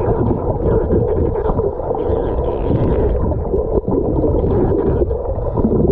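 Steady, muffled rush of water in a swimming pool, as heard by a submerged or water-covered camera, with a faint steady hum.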